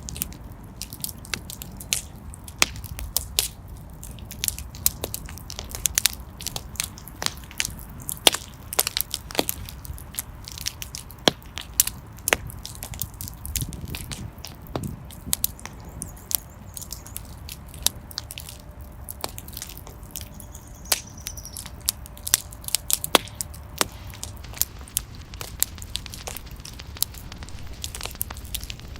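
Wood fire burning in a fireplace, crackling with many sharp irregular pops and snaps over a low rumble of the flames.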